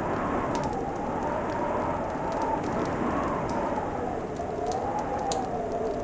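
Fireplace crackling, with scattered sharp pops, over a steady hiss and a low howl that slowly rises and falls.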